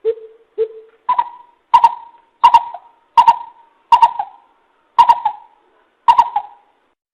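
Coucal lure call played back: two low hoots, then a run of seven higher hooting notes, each with a sharp click at its start, about one every 0.7 seconds and spacing out slightly toward the end.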